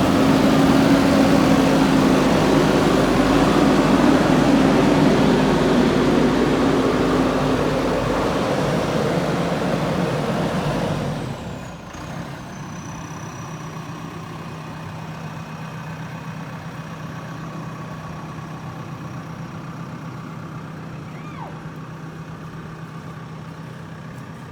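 Diesel engine of a JCB 3DX backhoe loader running loud under load. About eleven seconds in, the sound drops suddenly to a quieter, steady engine hum.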